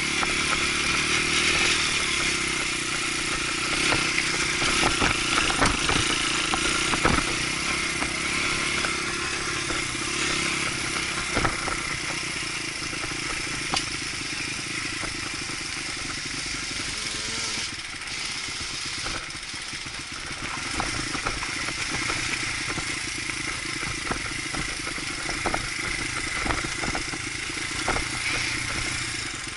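Dirt bike engine running steadily, with many scattered knocks and clatter through it.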